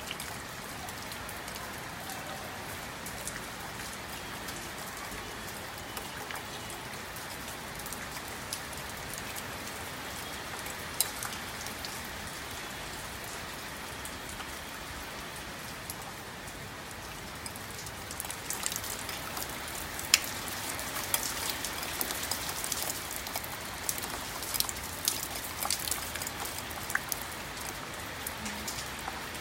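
Rain falling steadily, a constant hiss with sharp drops ticking on a surface. The drops come thicker and louder for several seconds past the middle, then ease off near the end.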